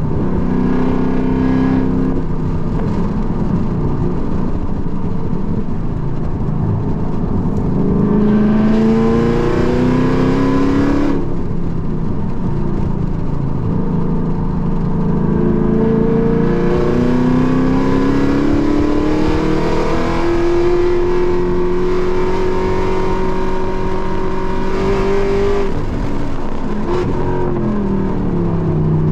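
Car engine heard from inside the cabin during hard track driving. It pulls with rising pitch and cuts off abruptly about a third of the way in, then climbs again and holds high before falling away near the end as the car slows.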